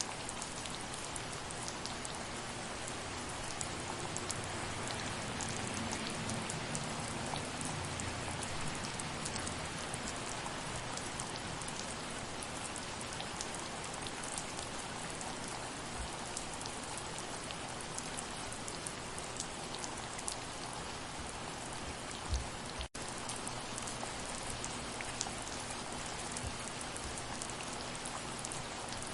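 Steady rain falling: an even hiss with many scattered, separate drop ticks. The sound cuts out for an instant about three quarters of the way through.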